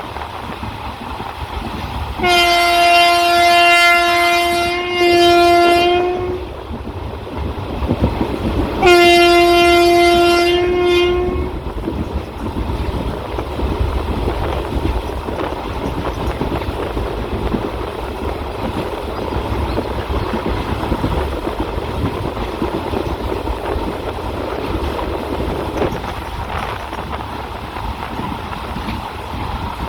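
Train horn sounding two long blasts, the first about two seconds in and the second about nine seconds in. After them comes the steady rumble of a train running.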